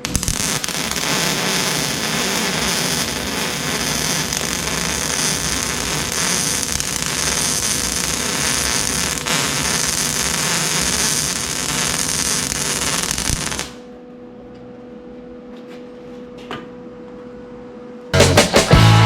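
Electric arc welding: a steady crackling hiss from the arc for about thirteen seconds, cutting off suddenly when the weld stops, over a steady electrical hum. Music starts near the end.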